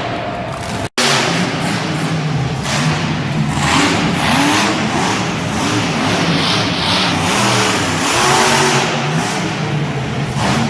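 Monster truck engines revving hard, their pitch rising and falling repeatedly over a loud wash of noise, broken by a brief cut about a second in.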